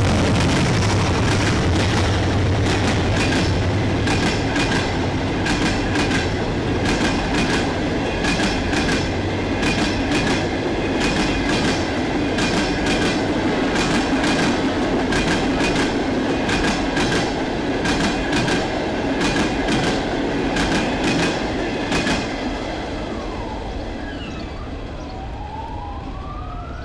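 Karachi Express passenger train of Pakistan Railways passing at speed. The diesel locomotive's engine is heard at first, then the coaches' wheels clatter over the rail joints in rapid irregular clacks, with a faint steady squeal. About 22 seconds in the clatter stops and the sound fades as the last coach goes by.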